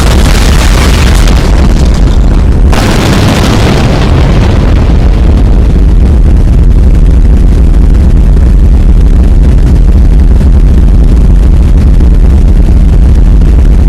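Loud, continuous low rumbling roar of dense noise with no clear pitch, overloading the recording; a brighter hiss on top drops away about three seconds in.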